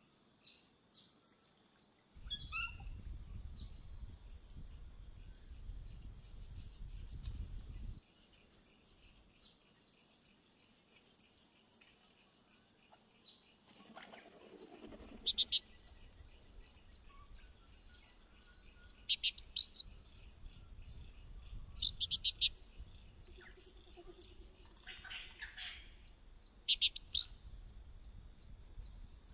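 Wild birds calling: a short high chirp repeated over and over, a few times a second, with four loud, rapid trills standing out.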